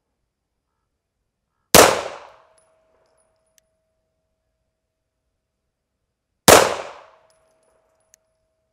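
Two 9 mm pistol shots from an Arsenal Firearms Strike One, fired slowly for an accuracy group about five seconds apart. Each shot is followed by a short ringing tone.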